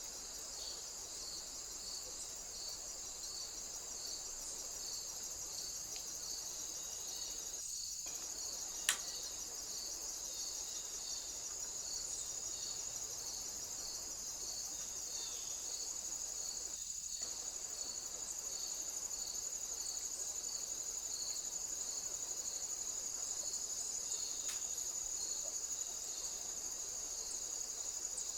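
Crickets chirping steadily: a continuous high trill with a slightly lower chirp repeating at an even pace beneath it. One sharp click comes about nine seconds in.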